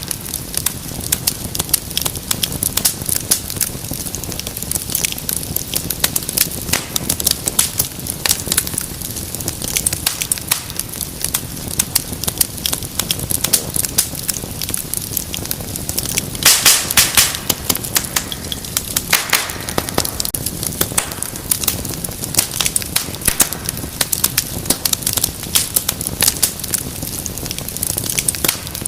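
Wood fire burning with dense, steady crackling and sharp pops over a low rumble, with a louder burst of popping about two-thirds of the way through.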